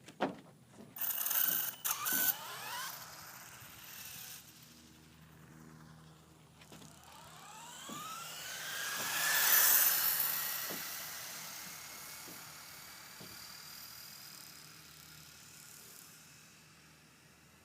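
High-speed RC car's brushless motor (Mamba Monster 2650kV on 6S) whining: a few hard bursts of acceleration with rising pitch near the start, then a rising whine that builds to its loudest as the car passes close about ten seconds in, then fades away.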